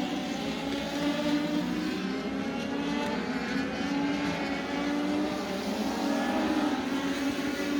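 INEX Legends race car engine running at fairly steady high revs, its pitch wavering only slightly.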